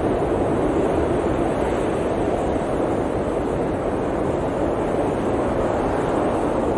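Steady rushing of blizzard wind, a dense even roar that holds at the same level throughout.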